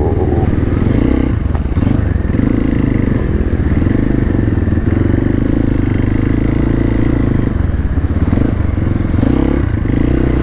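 Hero Xpulse 200's single-cylinder engine running loudly at fairly steady revs while the motorcycle is ridden through mud, with a few faint clicks and knocks.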